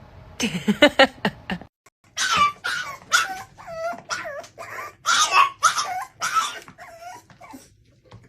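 A quick run of short, sharp sounds, then a dog yipping and whining in a series of short, high calls that bend up and down in pitch, fading near the end.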